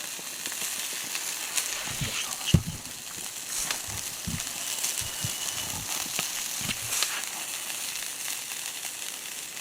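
Chicken skewers sizzling over charcoal in a fire pit: a steady hiss with scattered crackles. A few short low knocks, the loudest about two and a half seconds in.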